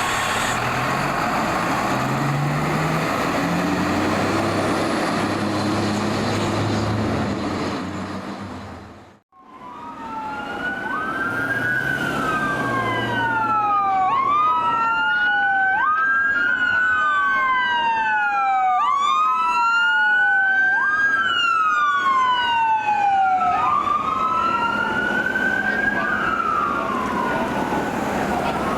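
Emergency vehicles responding: a heavy truck engine revving up in steps under loud road noise, then, after a sudden break, two electronic sirens on wail, sweeping up and down out of step with each other.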